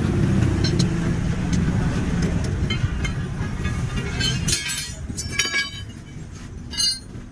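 A vehicle engine running with a steady low hum that fades away about halfway through, followed by a few short, sharp metallic clinks.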